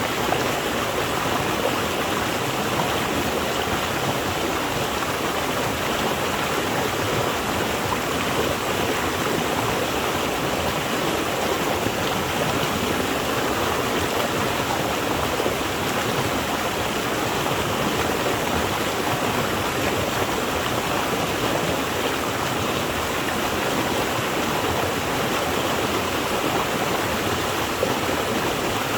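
Flowing water in a stream or small waterfall, a steady, even rush and splash.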